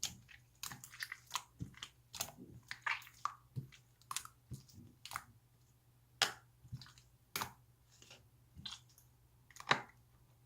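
Irregular small clicks, crackles and squishes from hands handling something close to the microphone, a few per second, over a faint steady low hum.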